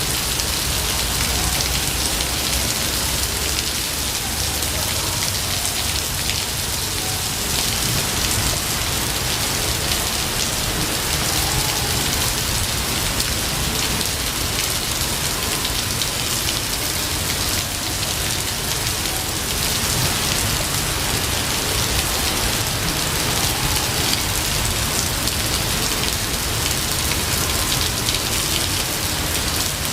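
Steady heavy rain, an even, unbroken hiss of falling drops with no thunderclap.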